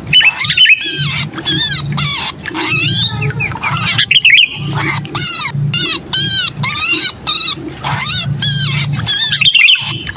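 Sooty-headed bulbul (kutilang) giving harsh distress calls like those of a trapped, pinched bird: a rapid run of arched, chattering notes, several a second, with brief breaks about half a second in, around four seconds in, and near the end.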